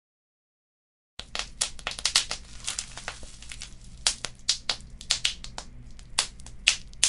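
Wood fire crackling: irregular sharp pops and snaps over a low steady rumble, starting after about a second of dead silence.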